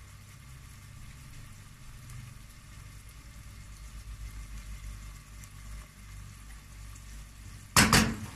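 Onions, peppers and garlic sautéing in butter and oil in a steel pot: a faint, steady sizzle over a low hum. Near the end a brief loud double knock as a wooden spoon strikes the pot.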